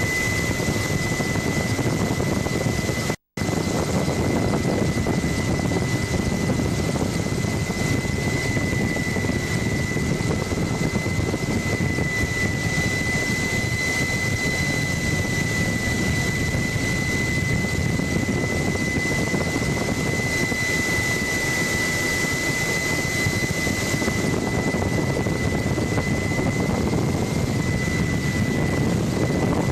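Helicopter noise from aboard in flight: steady engine and rotor noise with a constant high whine. The sound cuts out for a split second about three seconds in.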